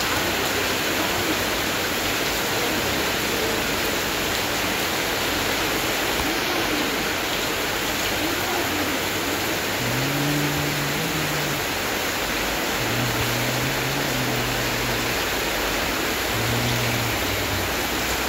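Heavy rain falling steadily on tarpaulins and a corrugated metal roof, with runoff pouring off their edges onto a flooded pavement: a dense, unbroken hiss. From about halfway through, a low hum comes and goes several times under the rain.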